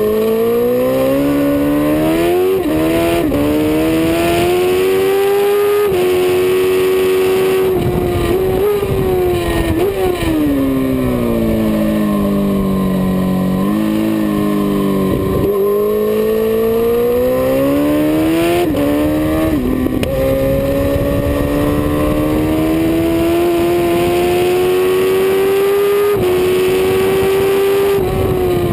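Suzuki GSX-R 1000 inline-four engine heard from on board under hard riding: the pitch climbs with quick drops at upshifts in the first few seconds, falls for several seconds midway as the bike slows, then climbs again through more upshifts to the end. Wind rush runs underneath.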